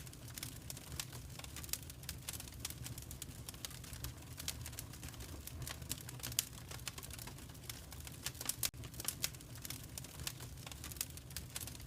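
Wood fire crackling in a fireplace: irregular sharp crackles and pops over a low steady rumble of the flames, with one louder pop about six seconds in.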